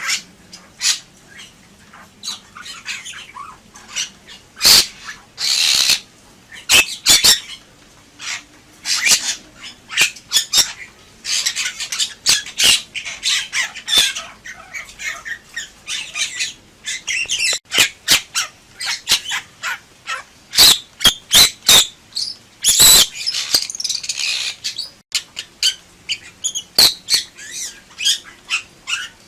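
Bali myna singing vigorously: a busy, irregular run of harsh squawks, sharp clicks and chattering calls.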